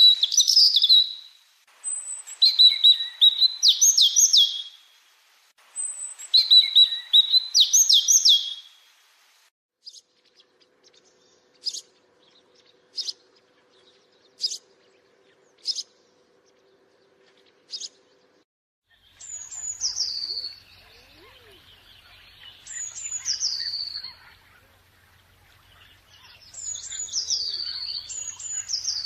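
Songbirds singing in three separate passages. First come repeated high, quickly rising song phrases. Next come single short, sharp call notes about every second and a half over a faint steady hum. Last come loud whistled phrases that fall in pitch, over a background of softer chatter.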